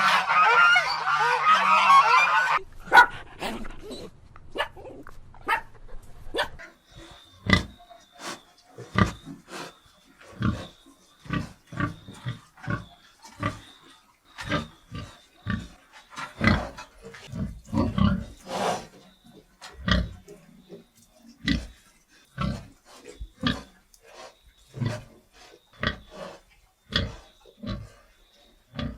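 Chickens clucking and squawking for the first couple of seconds, cut off abruptly, then a long run of short, separate pig grunts, roughly one a second.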